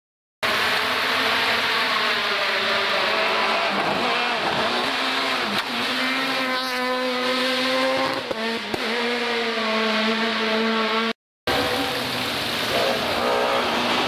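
Rally car engines at full throttle on a stage, the engine note rising and falling as the cars accelerate, shift and brake, with a short break of silence about eleven seconds in.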